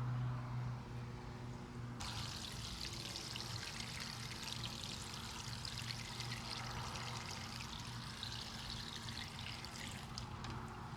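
Water running and pouring in a steady stream, starting suddenly about two seconds in and easing off near the end, over a steady low hum.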